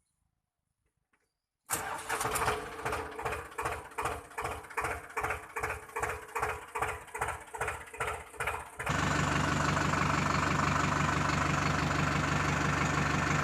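Engine starting: a regular chugging beat about two to three times a second, then from about nine seconds a steady, even running sound with a low hum.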